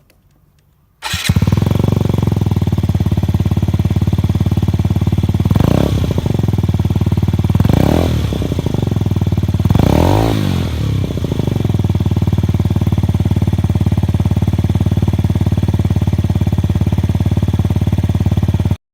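Yamaha Jog SA36J scooter's single-cylinder four-stroke engine with an aftermarket deep-bass muffler: it comes in suddenly about a second in, settles to idle, is blipped three times, and stops abruptly near the end.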